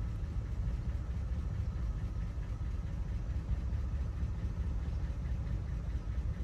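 Steady low rumble of an idling engine, with no distinct events on top.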